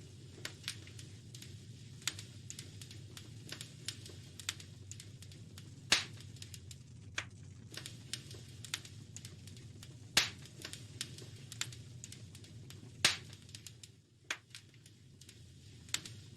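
Wood fire crackling in a fireplace: a steady run of small snaps with three louder pops spread through, over a low steady rumble.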